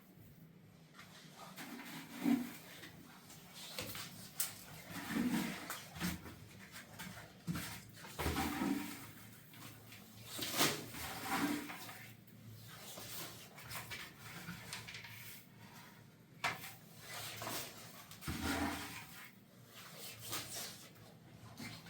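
Intermittent short animal calls, low in pitch, repeating every few seconds, with occasional sharp knocks and clatter between them.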